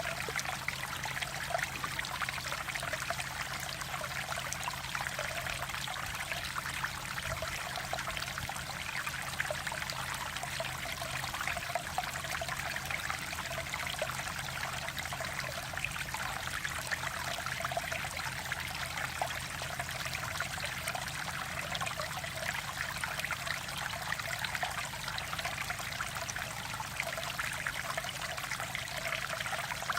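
Mountain valley stream flowing over rocks, a steady rush and trickle of water.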